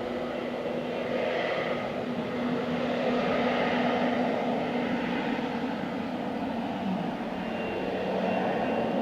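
Airbus A321neo airliner's jet engines running, a steady rushing noise with a low hum that shifts slightly lower about seven seconds in.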